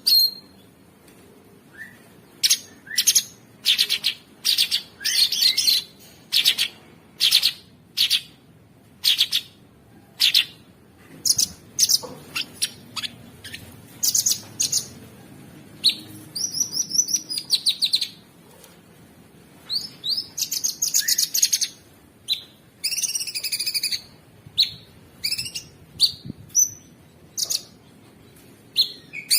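Cucak sungkok songbird singing: a run of short, sharp chirps about once or twice a second, broken by several faster, rattling trilled phrases.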